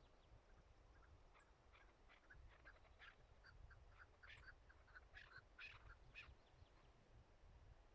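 Chukar partridge calling faintly: a long run of short, quick notes that grows louder toward the middle and then stops. A thin high chirp repeats about every second and a half over a low wind rumble.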